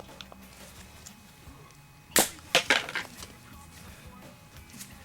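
A few sharp knocks and a short clatter of hard objects, the loudest about two seconds in, followed by several smaller ones over the next second.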